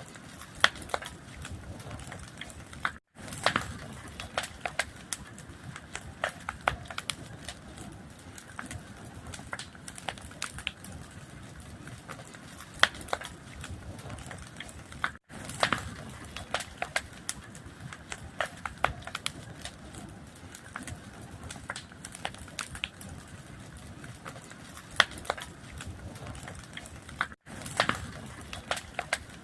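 Fire crackling, with sharp irregular pops over a low steady rumble. The sound cuts out for an instant three times, about twelve seconds apart.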